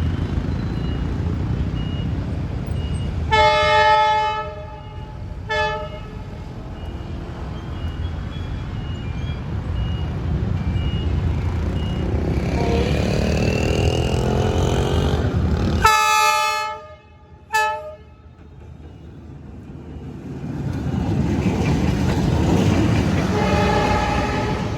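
D19E diesel-electric locomotive rumbling with its train, sounding its horn twice in a pattern of one long blast followed by a short one. The second long blast starts about sixteen seconds in.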